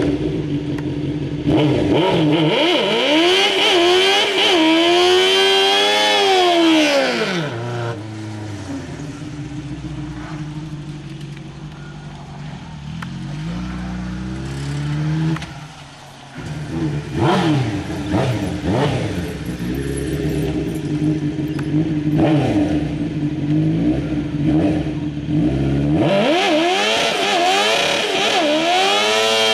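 Suzuki GSX-R 600 inline-four sport-bike engine in a modified Polaris Trail Blazer ATV, revved hard to a high scream during a burnout. It drops back to a lower, steadier run for several seconds, gets a few short blips, and climbs to high revs again near the end.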